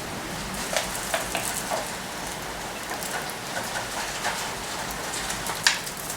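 Heavy rain from an approaching typhoon falling steadily, with a few short sharp taps and clicks scattered through it. The loudest tap comes near the end.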